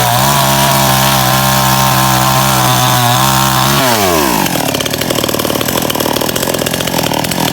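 Small Stihl two-stroke chainsaw running at steady high revs while cutting wood. About four seconds in the throttle is released and the engine winds down to a rapid, uneven idle.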